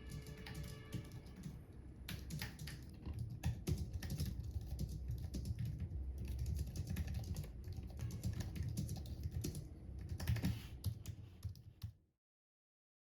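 Typing on a computer keyboard: a fast, irregular run of key clicks over a steady low hum, cut off abruptly to dead silence about twelve seconds in.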